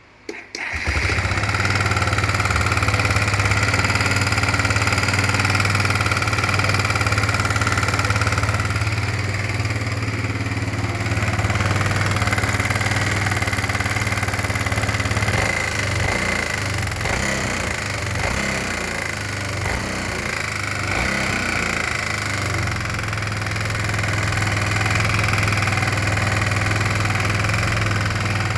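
Kawasaki Bayou 250's single-cylinder four-stroke engine starting within the first second, then running steadily with a knock in it. The owner takes the knock for a worn piston wrist pin or its bushing beating around, having ruled out carbon build-up, the valves and the cam chain.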